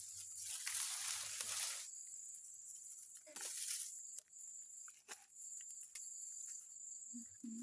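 A steady, high, thin insect drone in the background, with rustling handling noises in the first two seconds and again about three seconds in, and a few scattered clicks.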